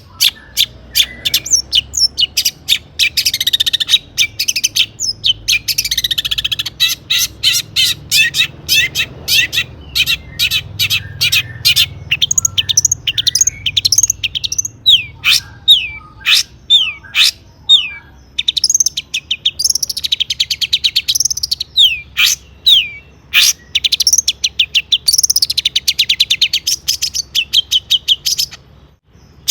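Long-tailed shrike (cendet) singing a fast, varied song full of mimicked notes: rapid sharp chips, buzzy trills and short falling whistles, with a brief pause near the end.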